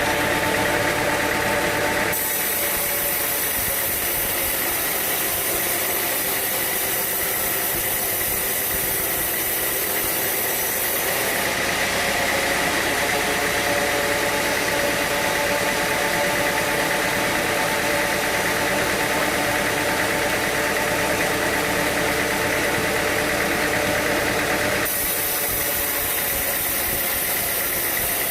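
Sawmill machinery running steadily with an engine-like drone and a high hiss. Its tone changes abruptly about two seconds in, again about eleven seconds in, and near the end.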